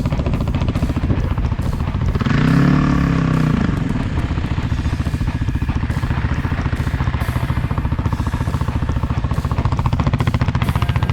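Dirt bike engine running with a fast, even firing beat. About two to four seconds in, the revs rise and fall again.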